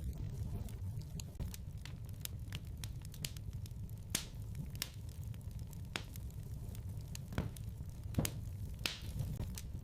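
Wood fire crackling in a fireplace: irregular sharp pops and snaps over a low steady rumble, with a few louder pops about four, seven and eight seconds in.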